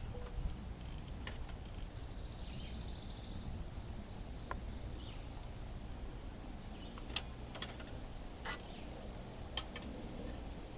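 Woodland ambience: a steady low rumble, with a bird's brief high trill about two seconds in and a few faint sharp clicks near the end.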